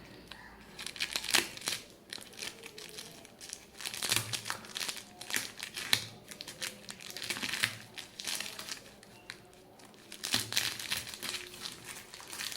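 Parcel packaging being crinkled and torn open by hand, in irregular bursts of crackling with short pauses between.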